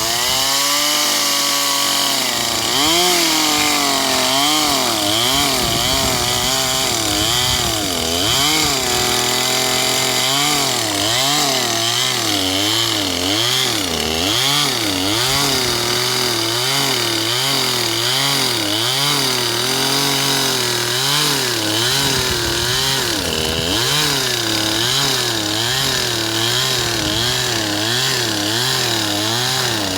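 A two-stroke chainsaw cutting a rotted dead tree, its engine speed rising and falling over and over. The swings are slow at first, then come about once a second from about ten seconds in, as the barely working saw labours in the cut.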